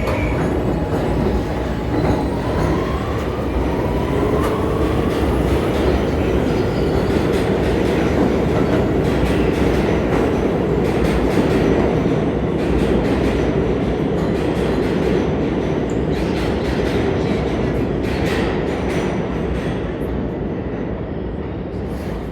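NYC Subway R46 train running on the rails with a steady loud rumble. A rising whine sounds in the first few seconds, and wheels clack over rail joints later on.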